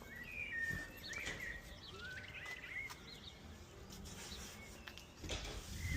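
A songbird singing: a run of short chirps and quick whistled glides. A low rumble comes up near the end.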